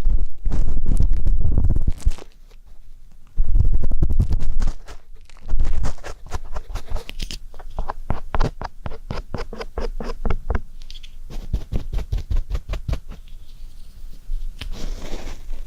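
An ear pick scratching and rubbing against a microphone in ear-cleaning ASMR: quick runs of close, scratchy strokes. In two stretches early on, heavy muffled rumbling comes where the tool presses on the mic.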